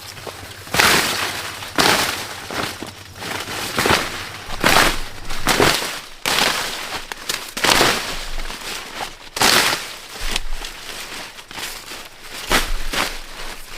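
Dry corn plants being handled: leaves and husks rustling and crackling in a series of uneven bursts, about one or two a second.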